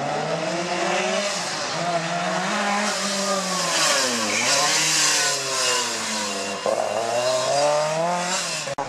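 Rally car engine being driven hard: the revs climb, drop steeply about four seconds in as the driver lifts off, then climb again in steps through the gears.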